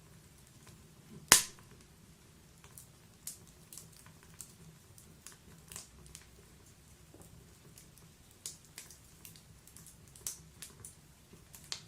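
Wood fire in a log-burning fireplace crackling: one loud, sharp pop a little over a second in, then scattered small snaps and crackles.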